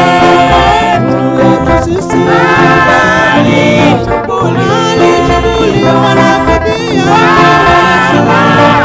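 Gospel worship song: voices singing a melody over instrumental accompaniment.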